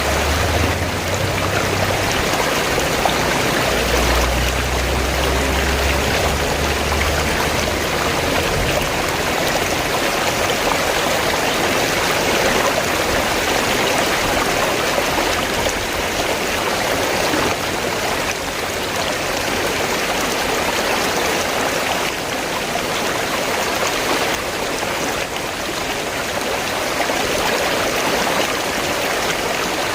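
River water flowing and rushing steadily, with a low rumble underneath for the first eight seconds or so.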